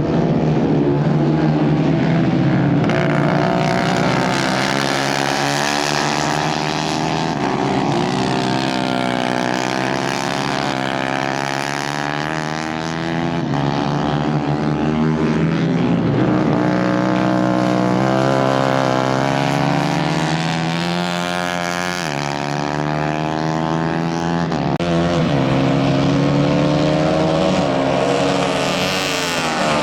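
Racing kart engines of the Kayak 150 class running hard in a race. Several engines overlap, their pitch repeatedly climbing and dropping as they accelerate out of corners and lift off into the next.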